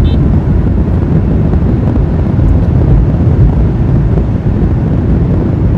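Steady low rumble of road and wind noise from a car driving at highway speed.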